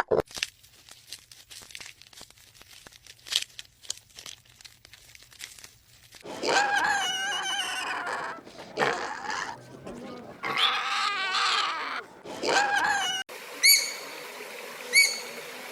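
Animal calls: a few seconds of scattered faint clicks, then a run of loud, high wavering cries, then, after an abrupt change about thirteen seconds in, short bird chirps repeating about every second and a half.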